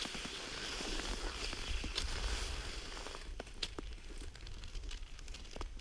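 Cross-country skis sliding and crunching on a groomed snow track, with a steady hiss and low wind rumble on the microphone for about three seconds. After that, scattered sharp clicks and creaks from the skis and poles.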